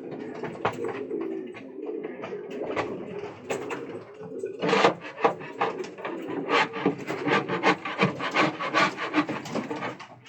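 Pigeons cooing in a loft. A fast run of scratchy scraping and tapping on wood joins the cooing about halfway through.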